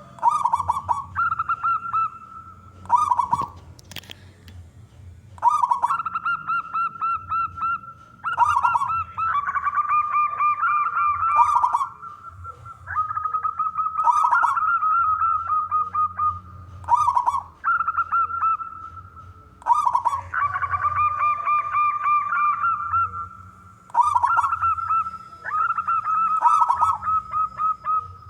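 Zebra doves cooing: bursts of rapid, trilled coos repeated every two to three seconds, with a second bird's cooing overlapping at times.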